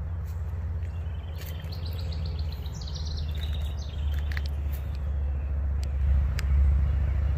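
A songbird sings a quick descending run of short, clear notes about one to three seconds in, over a steady low rumble that grows louder toward the end.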